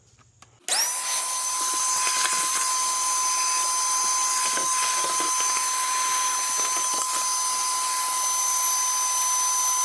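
An electric vacuum motor, as on a shop vac or carpet extractor, switching on under a second in and running steadily with a constant high whine over a loud rush of air.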